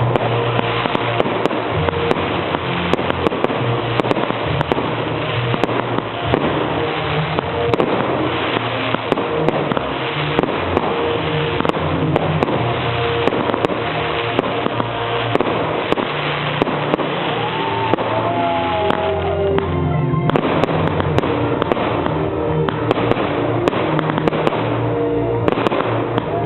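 Aerial fireworks display: a rapid, continuous run of bangs and crackles from bursting shells, with music playing alongside.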